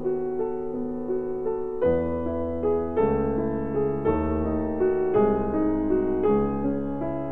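Slow piano music, with a new chord struck about once a second and each chord left to ring.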